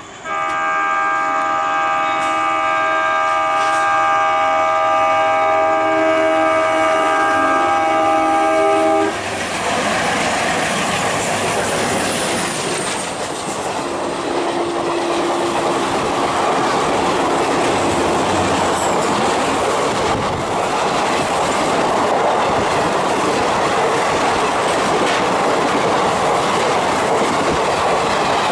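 ALCO diesel locomotive sounding its multi-tone horn in one long steady blast for about nine seconds, then the train running through at speed, wheels clattering over the rail joints in a continuous rush of noise.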